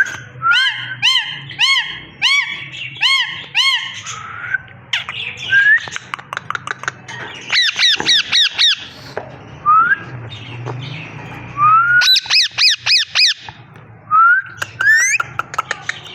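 Parrot calling: short arched squawks about two a second, then quick runs of rapid calls, with single rising whistled notes in between.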